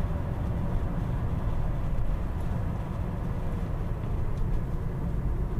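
Steady road and drivetrain rumble of a BMW 528i (E39) on the move, heard inside the car, with a faint steady whine above it.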